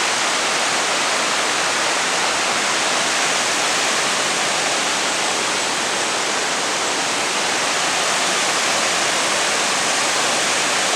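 Waterfall water rushing over rocks, a steady, unbroken hiss.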